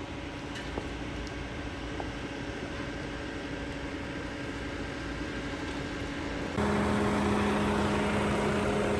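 Jeep Compass engine running steadily under way; about six and a half seconds in the sound turns abruptly louder, with a deeper, stronger engine note.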